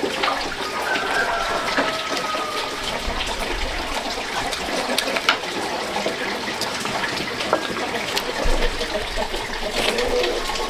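Water running and splashing steadily, with scattered light clicks and knocks.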